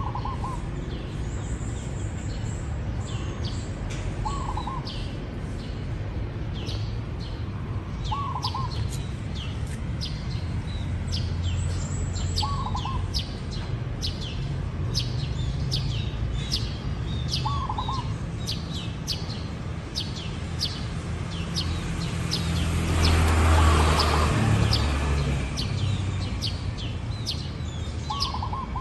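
Zebra dove calling at intervals of about four seconds, short coos over a dense background of small birds' rapid high chirps. About two-thirds of the way in, a rushing swell of noise rises and fades, the loudest sound.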